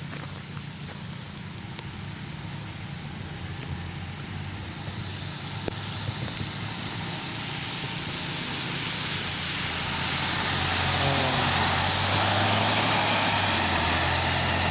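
A passing vehicle: a steady low engine hum under tyre and road noise that builds over several seconds, then holds loud. There is a brief high chirp about eight seconds in.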